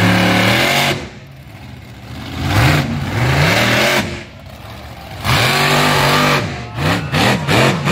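Monster truck engine revving hard in repeated bursts, the pitch climbing and dropping with each one, ending in a quick series of short blips of the throttle.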